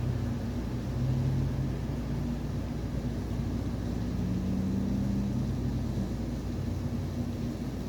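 Steady low engine-like drone with a humming tone that shifts slightly in pitch, typical of a nearby vehicle engine running.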